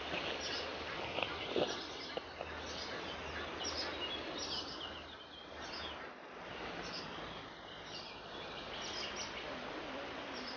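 Several small songbirds chirping and singing repeatedly over a steady background hiss of open-air ambience.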